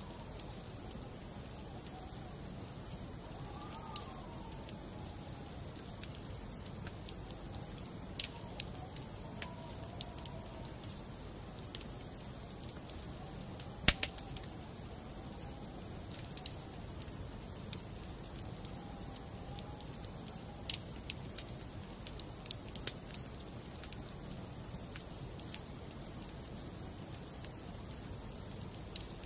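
Wood fire in a fireplace crackling: irregular sharp pops and snaps over a steady low hiss, the loudest pop about halfway through. Faint wavering tones rise and fall in the background now and then.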